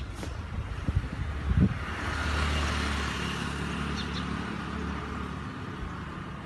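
Car engine hum with tyre hiss that swells about two seconds in and then slowly fades, as of a car going by; a few low knocks come before it.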